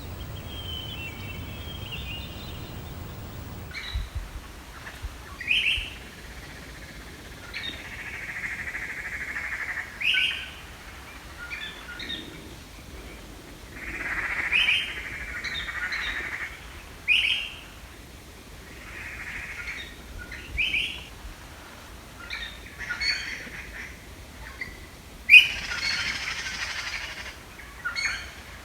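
Birds calling, with short sharp chirps alternating with longer buzzy calls; the loudest call comes near the end. A low rumble underneath stops suddenly about four seconds in.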